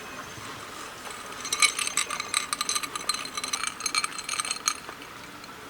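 Rapid light clinking of a small hard object, such as camp cookware or a utensil, with each strike ringing at the same bright tones, lasting about three seconds and starting after a second or so.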